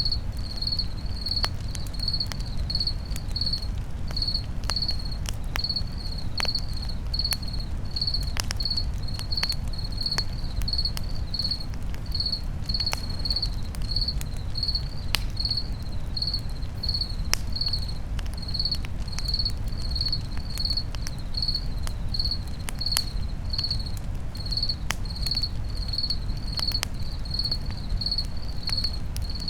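Crickets chirping steadily, a high chirp about twice a second, over a campfire crackling with scattered sharp pops and a low steady rumble.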